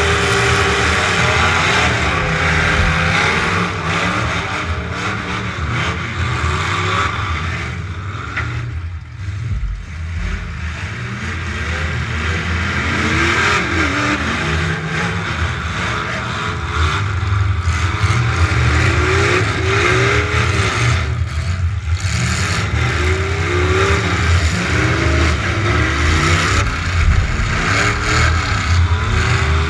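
Demolition derby truck engine revving hard and unevenly, its pitch climbing and falling again and again as the throttle is worked. The engine briefly eases off about a third of the way in and again about two-thirds in.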